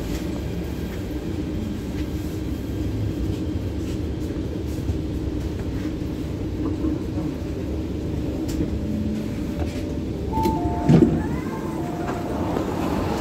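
Cabin noise of an MTR Rotem electric multiple-unit train: a steady low rumble as it runs into the station and comes to a stop. Near the end, a few short electronic chime tones sound as the doors open.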